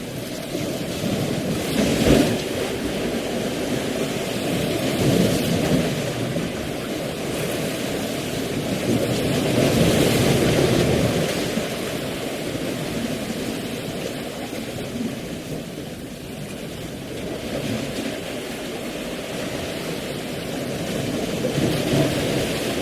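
Steady rushing outdoor nature noise of weather or water, deep and rumbling, swelling louder a few times.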